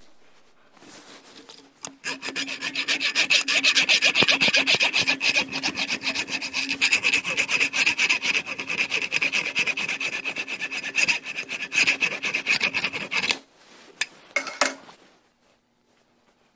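Fast, rasping scraping strokes of a tool working a metal part. They run for about eleven seconds, stop suddenly, and are followed by a couple of short scrapes.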